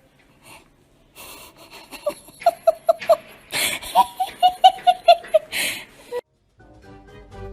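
A person laughing in a quick run of high, repeated "ha-ha" bursts, about four or five a second, with music starting near the end.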